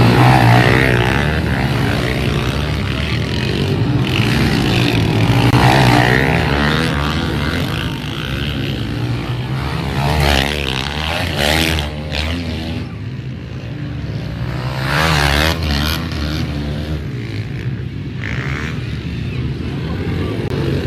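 Pit bikes racing, their small engines revving and shifting in pitch as they pass close by several times, the loudest passes about halfway and about three-quarters through.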